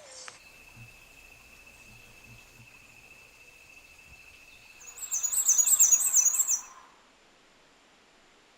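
A bird singing a loud, fast, high-pitched run of rapidly repeated notes, lasting about two seconds and starting about five seconds in. It is preceded by a long, steady, high thin tone.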